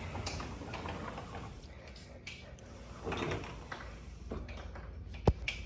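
Door noises: a brief scraping stretch about three seconds in, then a single sharp click near the end.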